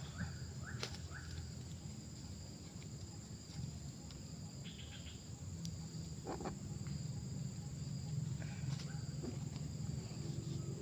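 Insects, such as crickets or cicadas, droning steadily with a high, even tone over a low steady rumble, with a few short rising chirps near the start and scattered faint clicks.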